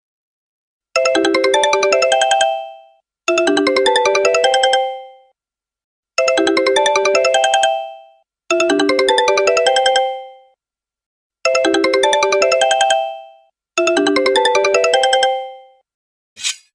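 Mobile phone ringtone: a short run of quick electronic notes rings twice, pauses, and the pair comes three times, each phrase fading out at its end.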